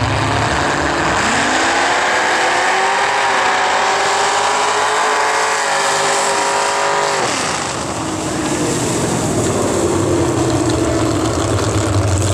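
Modified bog truck's engine revving hard. It climbs to high revs about a second in and holds there for several seconds, then drops off sharply about seven seconds in and runs lower.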